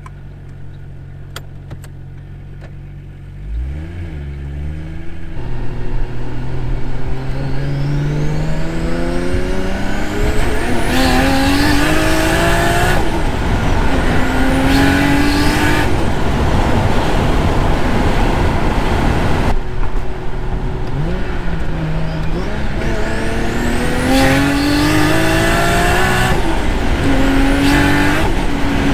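Turbocharged RB25DET NEO straight-six in a Nissan Laurel C33 idling, then pulling hard through the gears. Its pitch climbs repeatedly and falls back at each gear change, with rushing turbo hiss near the top of several pulls.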